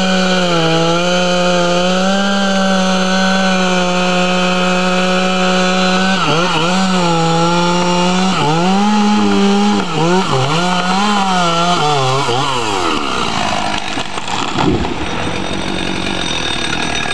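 Chainsaw cutting at full throttle, a steady high engine note that then dips and recovers over and over as the saw bogs under load in the cut. About 13 s in the engine note drops away into a broad rushing noise, with a heavy thump about 15 s in.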